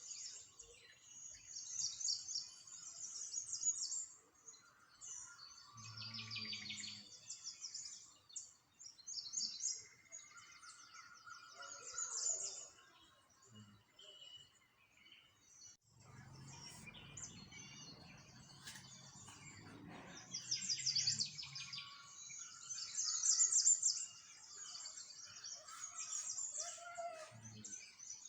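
Many small songbirds chirping and singing in rapid, high-pitched trills, overlapping throughout. A low rumble comes in briefly around a quarter of the way in and again for several seconds in the middle.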